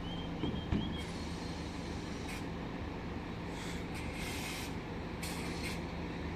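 Scania K320 bus engine idling with a steady low hum, with several short hisses of compressed air from its pneumatics. Two short knocks come about half a second in.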